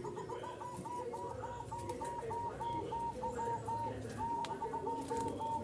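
Zebra doves (perkutut) calling: a fast, even run of short notes, several a second, with lower, irregular coos underneath. The run breaks off briefly about four seconds in, then starts again.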